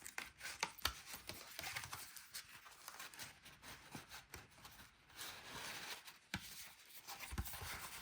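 Cut paper envelope being folded and creased by hand: light paper rustling with scattered small taps and crinkles.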